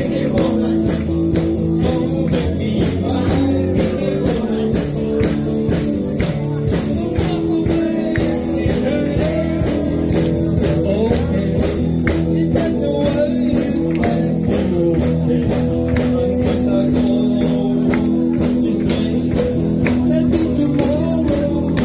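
A live band playing a rock cover song: electric guitar and sustained chords over a steady tambourine-and-drum beat, with some singing.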